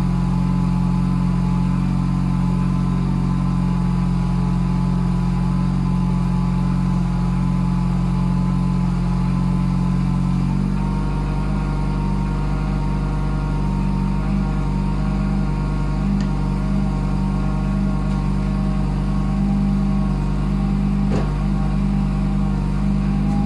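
Renault 21 engine running steadily at idle after a cold start in −10 °C frost; about eleven seconds in, its note shifts slightly in pitch. A brief click near the end.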